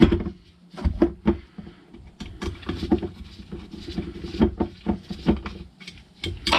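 Irregular light clicks and knocks of small metal and plastic parts of a Keihin motorcycle carburettor bank being handled and worked apart on a bench.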